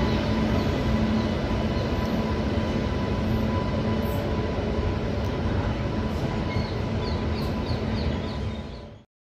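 Double-stack container freight wagons rolling slowly past on the rails: a steady rumble of wheels on track. It fades and cuts off near the end.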